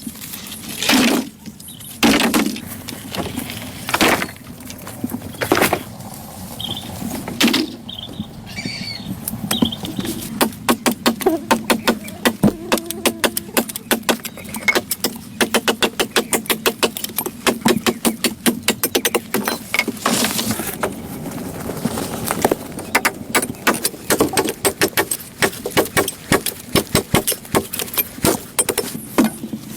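Repeated knocking: a few slow, heavy strokes about every second or two, then a long run of quick, regular taps or knocks.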